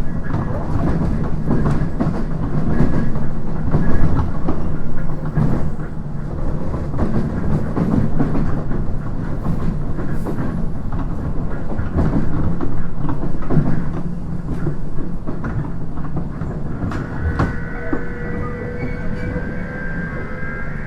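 JR East 719 series electric multiple unit running, heard from inside the car: a steady low rumble with wheels clicking over rail joints. Past the middle, a steady high whine joins in.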